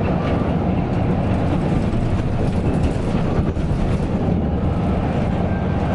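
Coach bus under way: a steady low rumble of engine and road noise.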